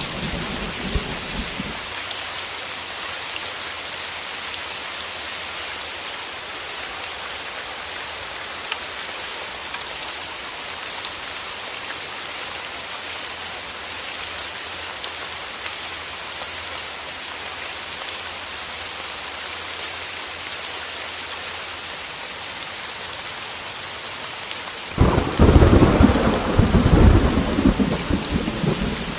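Heavy rain falling in a steady hiss, with a low thunder rumble dying away at the start. Near the end a sudden loud clap of thunder rumbles for a few seconds.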